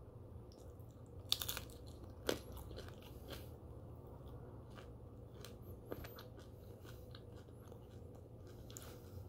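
Crisp turkey bacon being bitten and chewed close to the microphone. A cluster of loud crunches comes a little over a second in and a sharp single crunch about a second later, followed by quieter, scattered crackly chewing.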